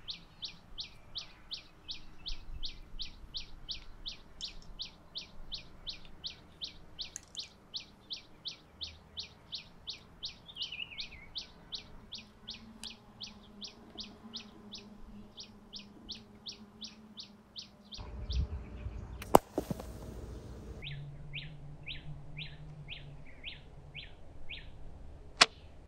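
A small bird calling in a steady run of high chirps, about three a second, broken off two thirds through and then taken up again at a lower pitch. A sharp crack sounds during the break, and a second sharp snap near the end as the drawn bamboo slingshot is released.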